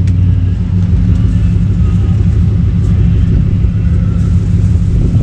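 Car engine idling with a steady, loud low rumble.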